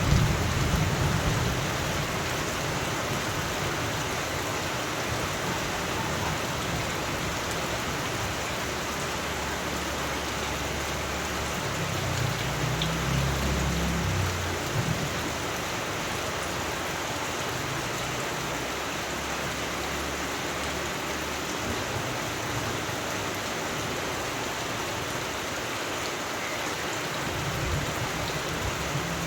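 Steady rain, with a low rumble of thunder dying away at the start and another low rumble of distant thunder about twelve seconds in.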